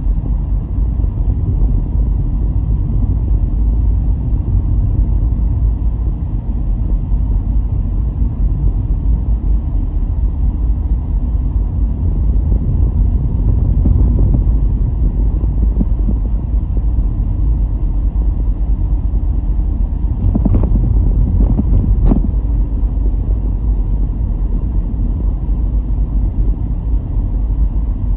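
A car driving, with a steady low road-and-engine rumble. Two short sharp clicks come about two-thirds of the way through.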